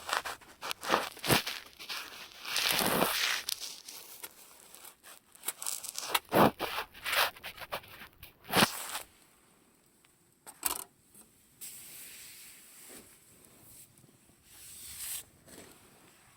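Campfire crackling with sharp pops, busy at first with a brief rushing swell about three seconds in, then thinning to scattered pops after about nine seconds.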